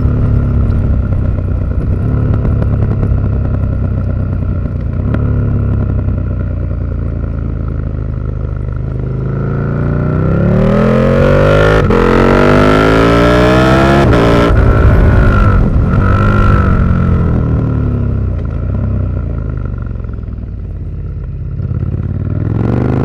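2019 KTM 1290 Super Duke R's V-twin engine through an Austin Racing V3 200 mm exhaust, running steadily at first, then revved up and down in several sweeps from about ten seconds in, and rising again near the end.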